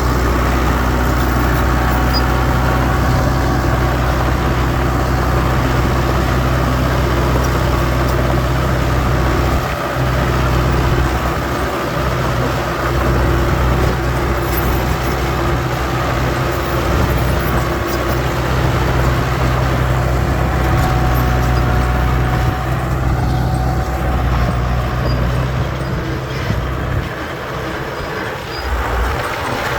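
Diesel engine of heavy earthmoving machinery running steadily with a low engine note, which briefly dips about ten and twelve seconds in and again near the end.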